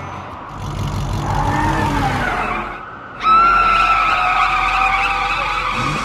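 Cartoon car sound effects: a car accelerating, then about three seconds in a sudden loud tyre screech that holds steady as the car skids into a slide.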